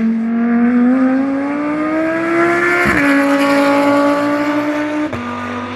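GT race car engine pulling hard under acceleration. Its pitch climbs steadily and then drops sharply with an upshift about three seconds in, and again with a second upshift about five seconds in.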